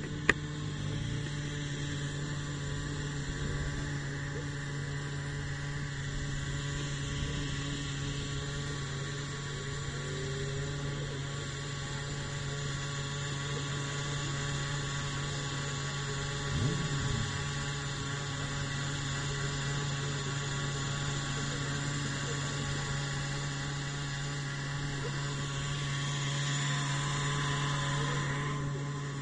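Simson two-stroke single-cylinder motorcycle engine running steadily at idle, a constant even hum that swells slightly near the end.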